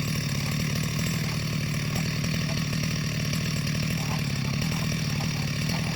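Two-stroke chainsaw running steadily at high revs, cutting through timber to make rafters.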